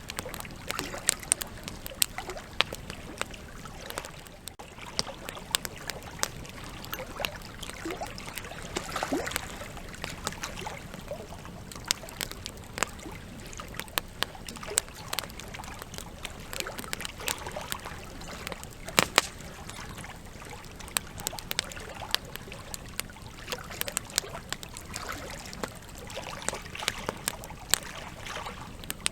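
Campfire of burning logs crackling, with irregular sharp pops and snaps over a steady low hiss of flame; one louder pop about two-thirds of the way through.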